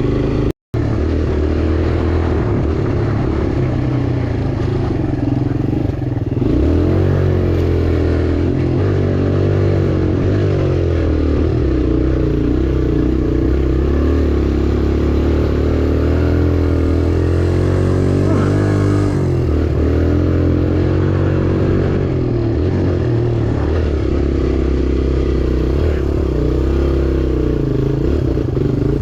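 Small four-stroke dirt bike engine being ridden hard, its pitch rising and falling again and again with the throttle and gear changes. The sound cuts out completely for an instant about half a second in.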